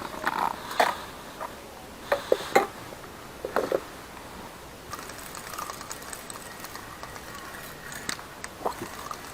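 A few short, light clicks and knocks over a quiet background hiss, clustered in the first few seconds, with a couple more near the end.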